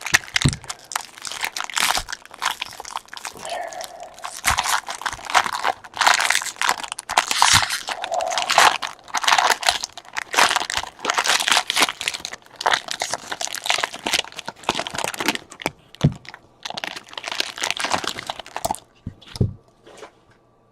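Trading-card pack wrappers being torn open and crumpled: a dense, loud run of crinkling and crackling that dies away near the end.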